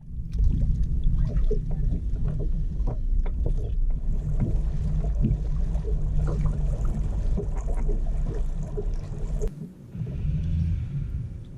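Kayak under way on the water, a loud steady low rumble with many small knocks and clicks; the rumble drops out briefly near the end.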